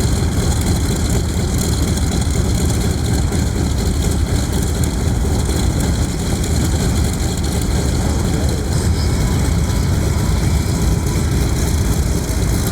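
Mitsubishi A6M Zero's radial engine idling steadily with its propeller turning.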